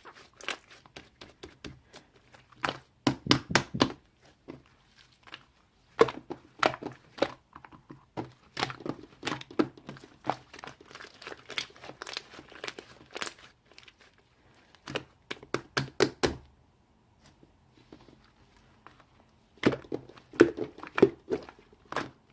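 Close-up crinkling and crackling clicks that come in bursts of a second or two, with short pauses between them.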